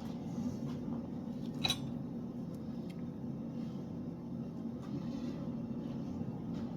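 Steady low hum of a motor or fan, with one sharp metallic clink about a second and a half in and a few faint ticks.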